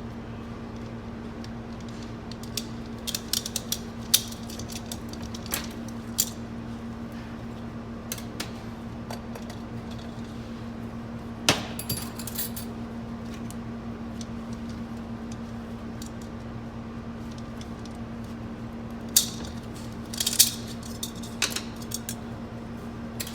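Scattered sharp metal clicks and clinks of hand tools on steel transmission parts as snap rings are pried out of an automatic transmission's clutch housing, the loudest cluster near the end. A steady low hum runs underneath.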